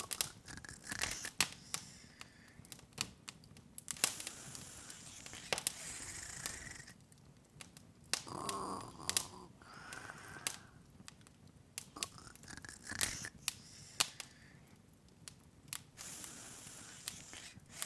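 Open wood fire crackling: irregular sharp pops and snaps scattered through, over a soft hiss.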